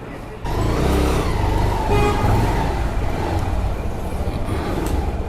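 Road vehicle noise with a heavy low rumble of wind on the microphone, starting abruptly about half a second in and running steadily.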